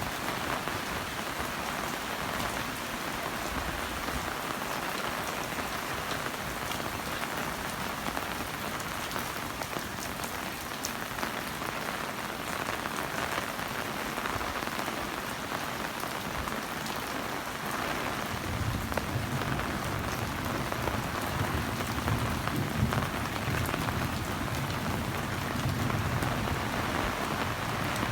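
Heavy rain falling steadily, a dense hiss with scattered drop taps. A low rumble joins about two-thirds of the way through.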